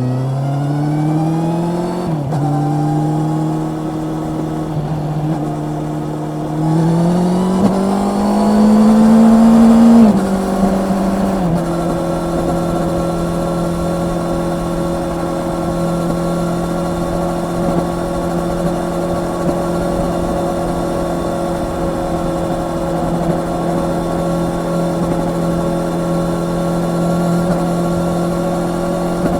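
Honda CB650R's inline-four engine accelerating, its note climbing and then dropping sharply on quick upshifts about two and ten seconds in. After that it holds a steady cruising note for the rest.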